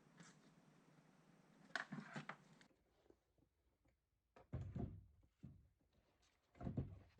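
Faint clicks in a quiet space, then short low thuds, a pair about halfway through and a louder one near the end.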